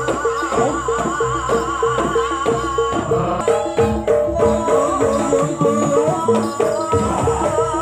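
Jaranan gamelan music: a pitched percussion pulse repeating about three times a second over hand drums, with a wavering high melody line on top.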